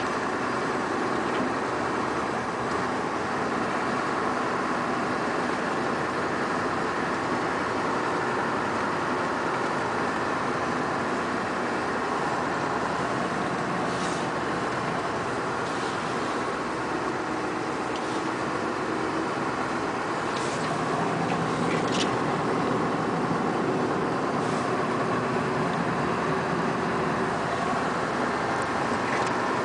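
Scania R580 timber truck's V8 diesel engine running steadily, a little louder about two-thirds of the way through. A few faint short clicks come in the second half.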